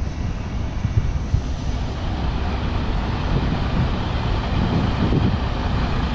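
Semi truck's diesel engine running at low speed with a steady low rumble as the tractor-trailer backs up slowly.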